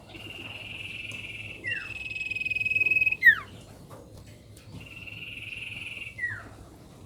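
Common iora (sirtu) singing three long, level whistles, each ending in a sharp downward slur. The second whistle grows louder and ends in the loudest note.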